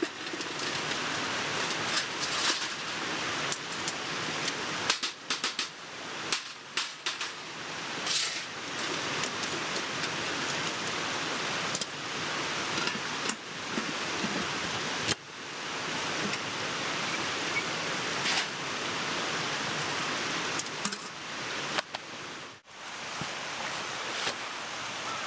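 Mountain stream rushing steadily, with scattered clicks and rustles of camping gear being packed away.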